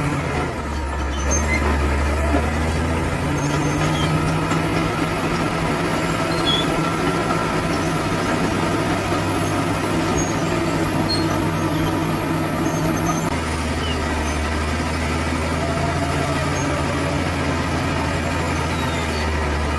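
Bulldozer's diesel engine running steadily under work. Its engine note changes abruptly about two-thirds of the way through.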